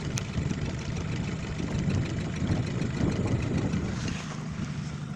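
Suzuki DT30 two-stroke outboard motor idling with a steady low rumble.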